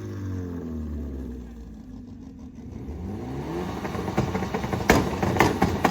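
Car engine with a side-exit exhaust revving: the pitch falls away as the revs drop, then climbs again in a second rev, followed by several sharp cracks near the end.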